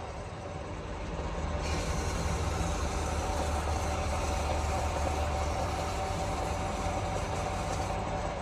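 Workshop lathe running with a steady low hum and a held tone. A brighter hiss joins about two seconds in and stops near the end.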